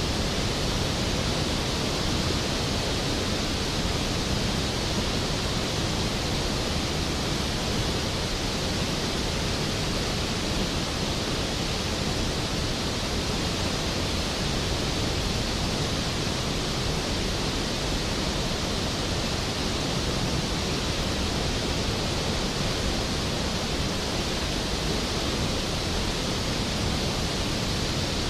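Skógafoss waterfall pouring heavily: a steady, dense rush of falling water, even and unbroken throughout.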